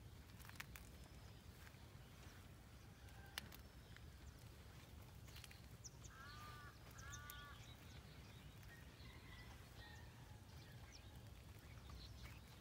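Quiet rural morning ambience with a steady low rumble. A bird gives two short calls about six seconds in, with fainter high chirps around it, and two sharp clicks sound in the first four seconds.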